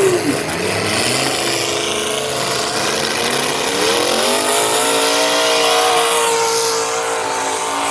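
Demolition derby car engines running hard. About halfway in, one engine revs up and holds at high revs for a few seconds before easing off slightly.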